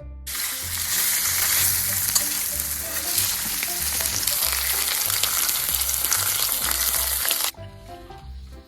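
Food sizzling loudly on a hot grill plate, starting just after the beginning and cutting off suddenly near the end. Background music with a steady bass beat runs underneath.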